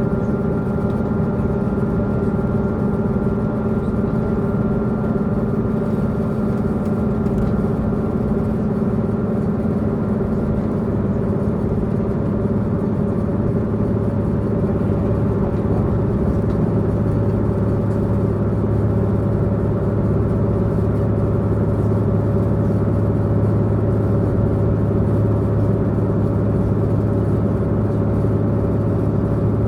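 Diesel engine of a diesel multiple-unit Tze-Chiang express train running steadily while the train travels at speed, heard from inside the passenger car, with a low rumble under several steady engine tones. A deep hum grows stronger about halfway through.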